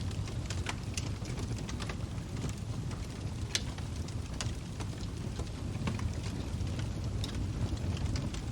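Log fire burning with a steady low rumble and irregular sharp crackles and pops from the burning wood, about one loud pop every second or two.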